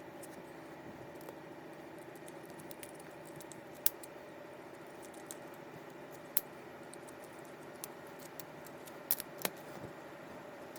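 Scattered small sharp clicks and taps of fishing reel parts and small tools being handled during disassembly, about half a dozen, a few close together near the end, over a steady low hum.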